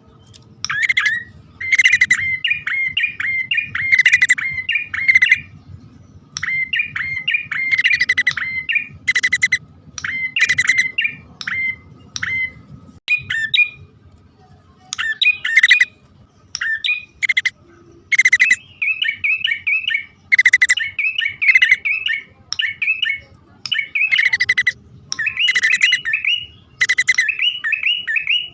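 Prinias (prenjak poci/hutan) calling, a pikat lure recording of male and female: phrases of one to three seconds, each opening with a sharp note and running into a quick string of chirps, repeated with short gaps throughout.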